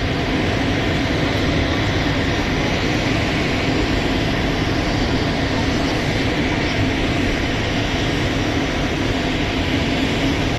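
Steady, loud roar of jet aircraft engines: a dense rush with a low hum underneath, holding even throughout and cutting off suddenly at the end.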